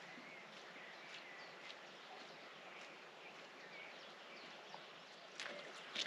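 Faint bird chirps over a steady outdoor hiss, with footsteps on the trail starting near the end.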